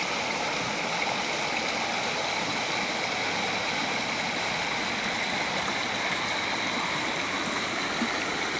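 River water rushing and babbling in a steady flow.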